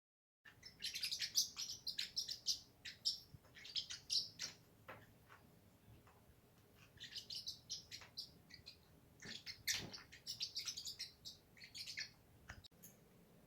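Small pet parrot chirping in quick runs of high chirps, in three bouts with short pauses between.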